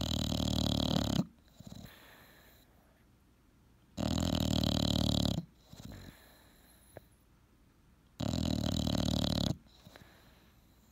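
English bulldog snoring: three loud snores about four seconds apart, each lasting over a second, with a short, softer breath after each.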